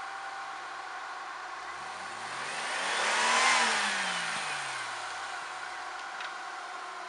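A motor vehicle drives past, its engine and tyre noise swelling to a peak about halfway through and fading away, the engine note dropping in pitch as it goes by. A steady hum continues underneath.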